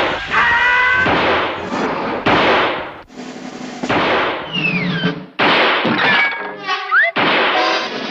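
A rapid string of cartoon crash and smash sound effects, things breaking and clattering, cut one after another. A falling whistle-like squeal comes midway and a short rising squeal near the end.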